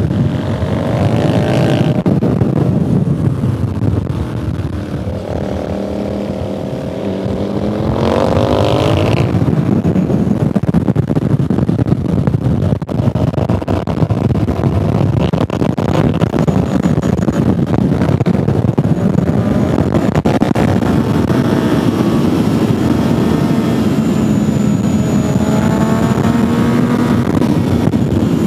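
Motorcycle engine heard from onboard at track speed, its revs falling in the first couple of seconds, climbing hard from about five to nine seconds in, then holding high. Wind rushes over the microphone throughout.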